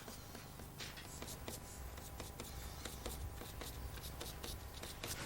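Faint brushing and rustling of paper, with scattered light ticks and scratches.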